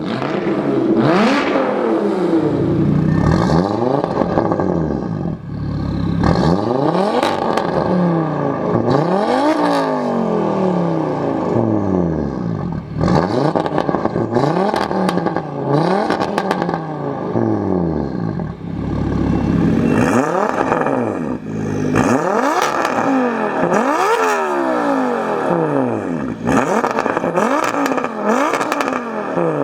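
Audi RS3's turbocharged five-cylinder engine through a straight-piped exhaust, revving up and falling back over and over, each sweep a couple of seconds long.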